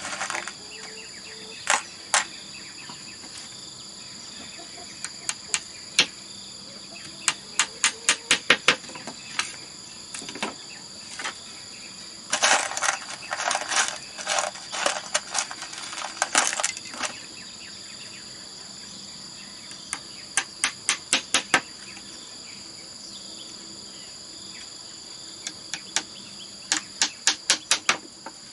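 Quick runs of sharp knocks, about four or five a second, from hand-tool work on bamboo, with scattered single knocks and a few seconds of rough scraping midway. Insects chirr steadily in the background.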